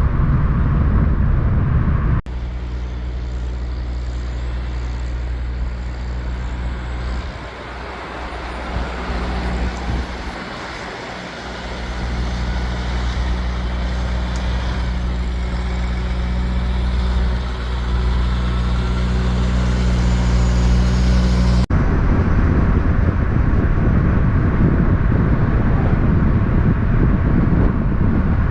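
Big-rig diesel truck engine running at a steady speed, a drone of evenly spaced low tones that thins out for a few seconds and then comes back. Before and after it, abrupt cuts switch to loud rushing traffic noise.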